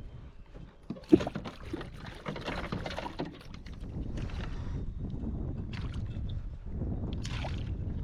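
Water splashing and sloshing against a kayak as a hooked redfish is fought alongside, with scattered clicks and knocks and one sharp knock about a second in.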